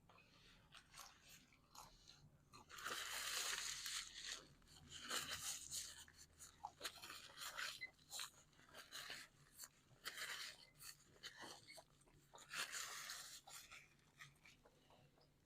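Close-up chewing of a homemade calzone, the crust crunching in several louder bouts with small mouth clicks between them.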